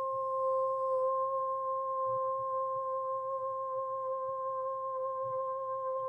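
A woman's voice toning one long, steady, high note close to a hum, held at an even pitch with hardly any waver.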